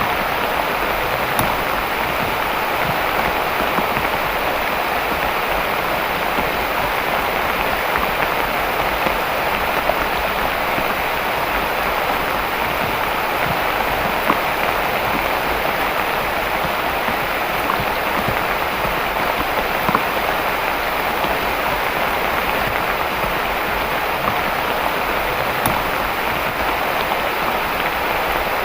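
Steady heavy rain falling, an even rushing hiss with faint scattered drop ticks.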